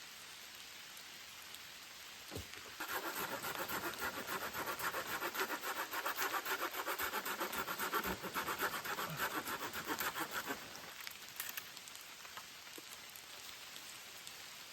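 A hand saw cutting wood in fast, even strokes for about eight seconds, starting about three seconds in, over steady rain.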